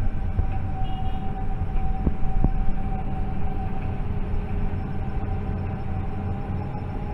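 Steady drone of heavy machinery with a constant whine and a low hum. Two sharp knocks come about two seconds in.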